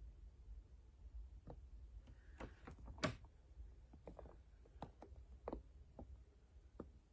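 About ten light, scattered clicks and knocks, the loudest about three seconds in, over a faint low hum.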